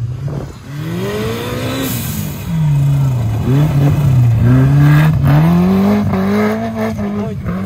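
Suzuki Jimny's engine revving up and down in repeated surges as it drives over a rough dirt trial section, its pitch rising and falling several times.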